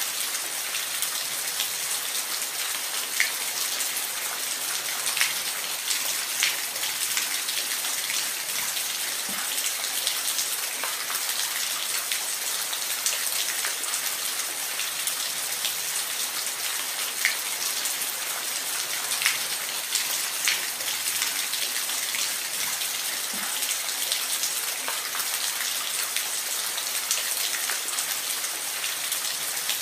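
Steady rain falling, an even hiss with individual drops ticking sharply on a surface every second or two.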